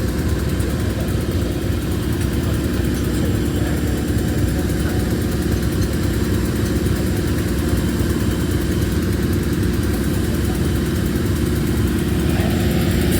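Diesel train engine running steadily: an even, unbroken drone.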